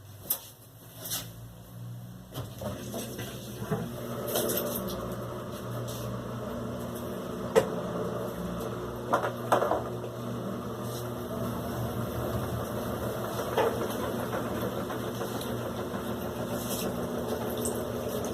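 Electrolux LAC16 washing machine running, with a steady motor hum that builds up about two seconds in and a few sharp clunks along the way.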